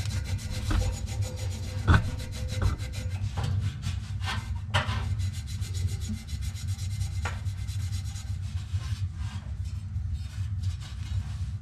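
Rapid back-and-forth hand rubbing, a part being abraded with a makeshift substitute for sandpaper, with a few stronger scraping strokes, over a steady low hum.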